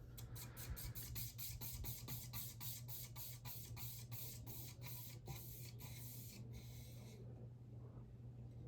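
Emerson Pro Series ceiling fan coasting down after being switched off: a rhythmic swishing from the turning blades that slows steadily and dies away about seven seconds in, over a steady low hum.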